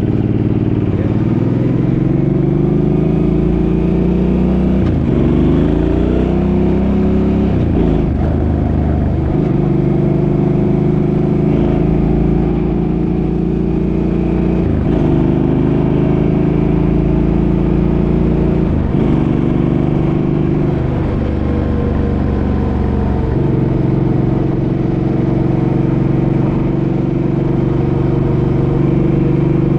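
Suzuki's engine pulling through the gears. The pitch climbs and then drops at each of several gear changes, then holds steady near the end as it cruises.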